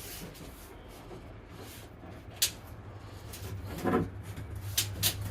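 A few sharp knocks and clicks from vinyl plank flooring being handled and laid, the loudest knock about four seconds in, over a low steady hum.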